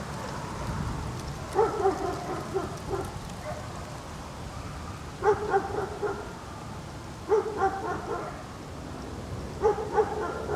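A dog barking in four short bouts of a few quick barks each, over a steady low background hum.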